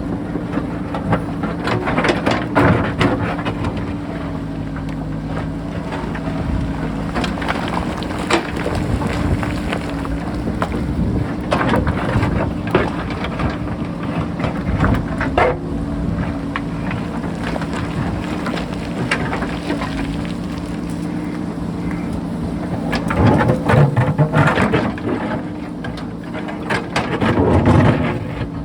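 JCB backhoe loader's diesel engine running steadily under load, with repeated clatter and scraping of the bucket on sharp rock. The engine swells louder twice near the end.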